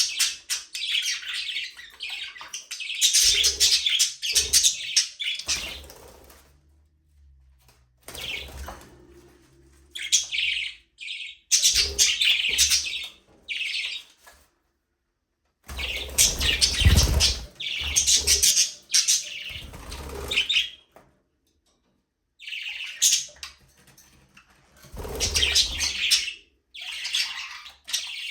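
Budgerigars chattering and chirping in bursts of rapid high calls, broken by a few short silent gaps.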